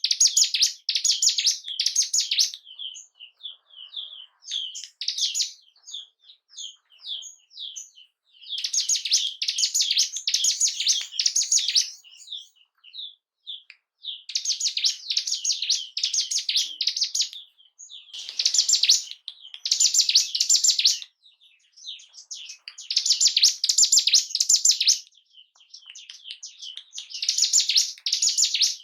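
Ciblek gunung songbird singing in repeated bursts of fast, high chattering song, each lasting two to three seconds, with short runs of separate chirps between them. It is a lure recording meant to rouse a caged ciblek gunung into song and breeding excitement.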